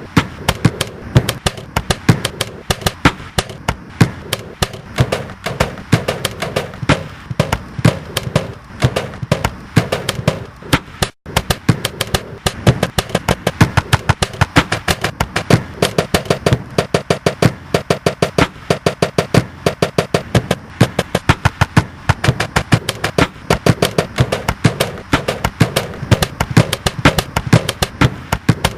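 Rhythmic collage of very short repeated audio snippets cut from the footage's original sound, making a fast, steady pattern of sharp knocks and clicks. A brief gap breaks the pattern about eleven seconds in.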